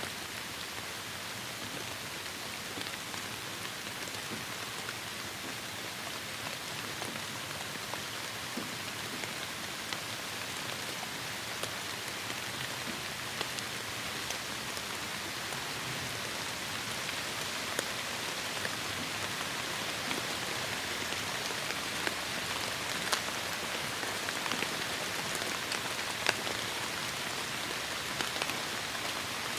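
Steady heavy rainfall, a dense hiss with scattered sharp drop impacts that come a little louder and more often toward the end.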